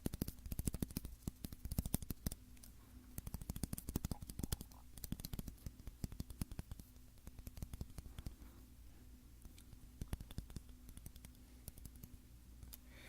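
Rapid, irregular tapping and clicking on a shoehorn, dense in the first half and thinning out to scattered taps after about six seconds.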